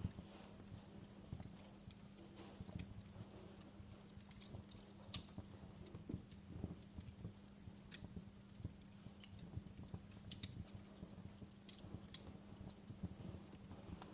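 Wood fire crackling in a fireplace: irregular sharp pops and snaps over a steady low hum.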